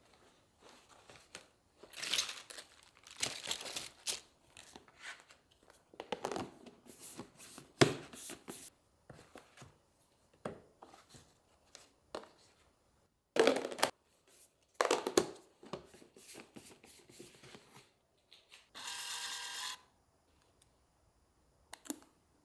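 Plastic packaging being handled: bursts of crinkling and tearing, then a short buzzy rasp near the end.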